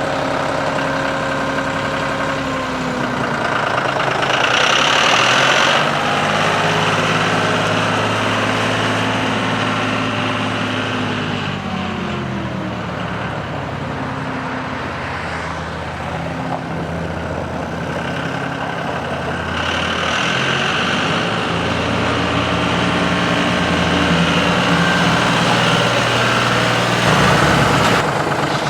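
2009 John Deere 5055D's three-cylinder turbo diesel running, its pitch rising and falling as engine speed changes, with a higher hiss coming and going.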